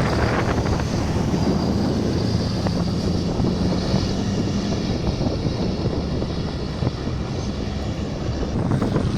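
Heavy truck diesel engines running in a steady drone, with wind buffeting the microphone.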